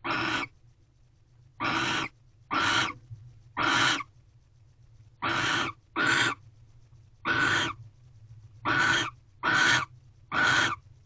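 Barn owl giving a series of harsh hissing calls, about ten in all, each around half a second long, spaced roughly a second apart and sometimes closer.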